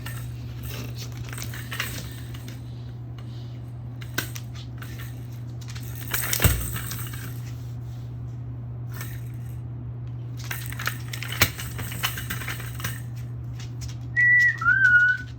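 Toy car clicking and rattling on the floor as a cockatoo plays with it, with a sharp knock about six and a half seconds in and another near eleven and a half seconds, over a steady low hum. Near the end the cockatoo gives two short whistles, the second lower than the first.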